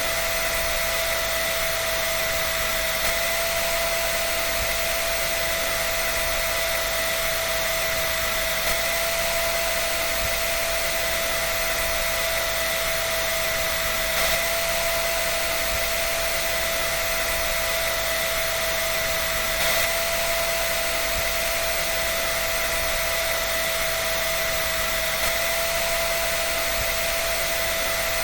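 Hair dryer running continuously: a steady blowing hiss with a constant whine held at an even pitch.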